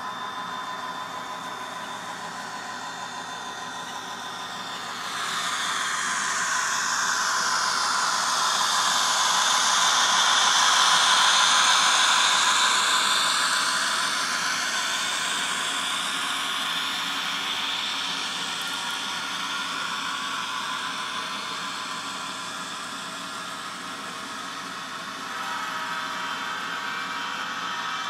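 Diesel locomotive sound from an ESU LokSound Micro decoder played through an N scale Kato F40PH model's small speaker: a steady engine hum with a hissing noise that swells up over several seconds, peaks near the middle, and fades back.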